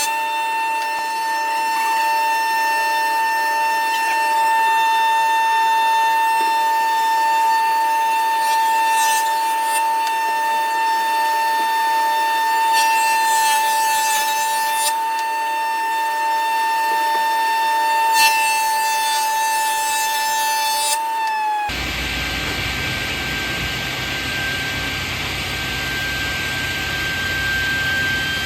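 Power saw milling an old timber beam into planks: a steady high-pitched whine for most of the stretch, then about 21 seconds in the sound switches suddenly to a fuller, lower noise of the blade running through the wood.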